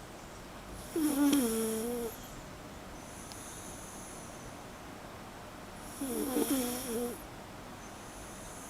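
Miniature schnauzer snoring in its sleep: two pitched, piglet-like snores about five seconds apart, each lasting about a second.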